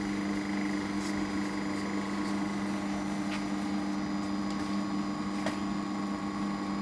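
Steady electrical hum from a single-phase-to-three-phase transformer and the drone battery charger it powers while a battery charges, with a few faint clicks.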